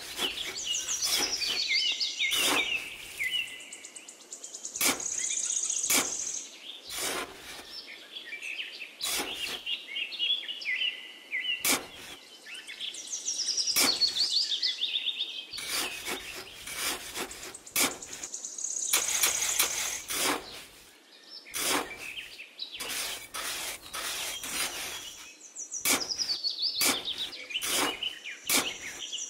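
Small trowel scraping and scooping damp sand in many short strokes, with birds chirping over it in repeated runs of high, falling notes.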